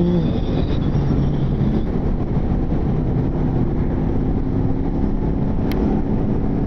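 Motorcycle engine on the move, its note falling right at the start and then running steady under wind rush. There is a brief click near the end.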